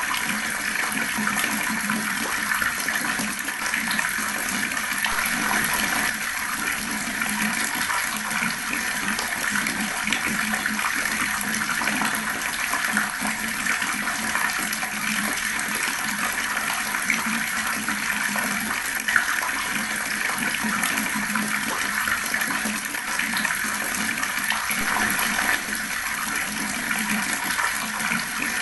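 Fast-flowing water rushing steadily without a break.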